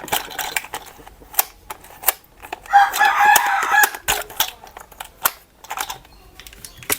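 A rooster crowing once, a call of just over a second, about three seconds in, amid scattered sharp clicks.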